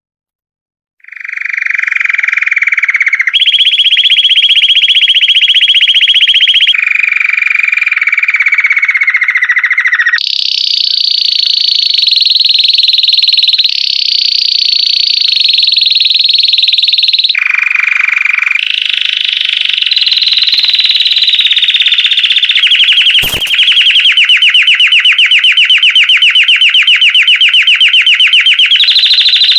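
Belgian canary singing after a second of silence: a long run of rapid trills and rolls, each held for a few seconds before jumping abruptly to a new pitch. A single sharp click sounds late on.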